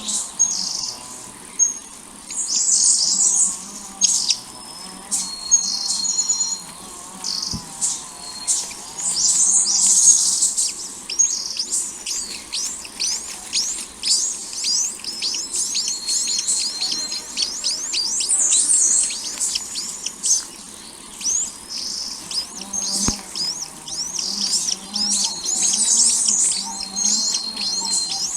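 Small birds chirping: a dense run of rapid, high-pitched chirps and quick downward-sweeping calls, with a few short whistled notes mixed in.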